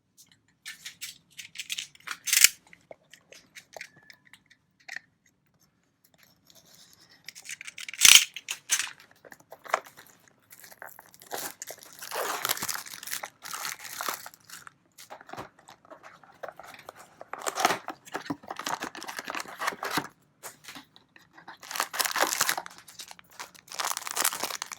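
Trading card booster packaging being handled and torn open: irregular crinkling and tearing of plastic wrap and cardboard, with two sharp knocks, one about two seconds in and a louder one about eight seconds in.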